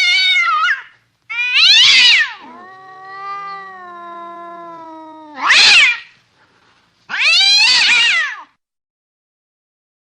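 Cats yowling and screeching in a fight: four loud, high, wavering screeches, with one long, lower, quieter yowl held for a couple of seconds in the middle.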